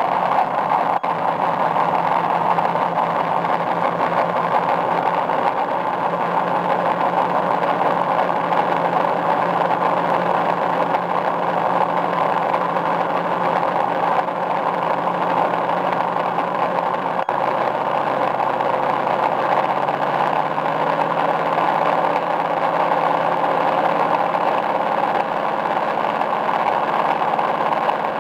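A 10WPA engine running steadily. Its note shifts slightly about two-thirds of the way through.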